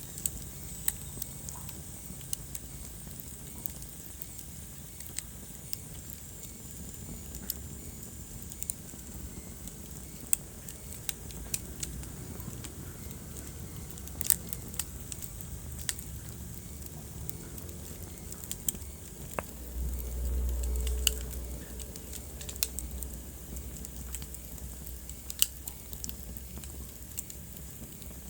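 Wood fire burning in a fireplace: irregular sharp crackles and pops over a steady low rumble of the flames, with a brief louder rumble about twenty seconds in.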